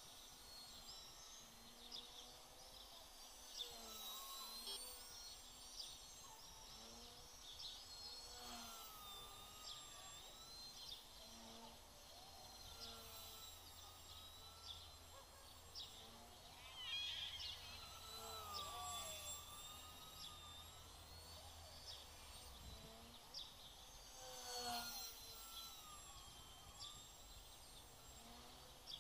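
Faint whine of an FPV quadcopter's electric motors, its pitch rising and falling continually as the throttle changes.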